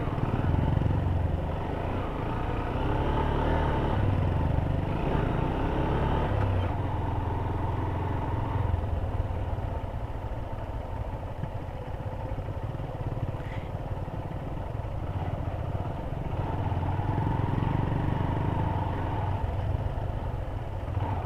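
Single-cylinder engine of a Honda CB Hornet 160R motorcycle running under way, swelling in the first few seconds and again about two-thirds of the way in, easing off in between.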